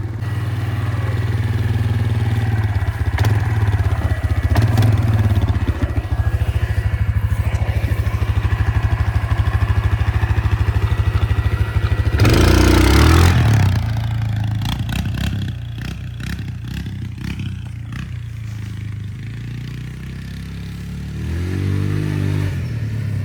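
Motorbike engine running at steady revs, with a loud surge about twelve seconds in, after which the engine sound drops off.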